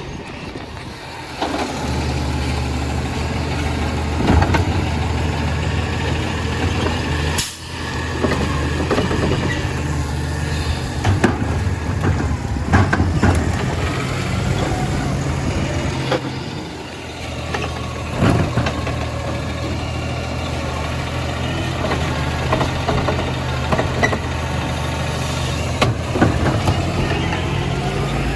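Compost collection truck's engine running steadily, with scattered clanks and knocks.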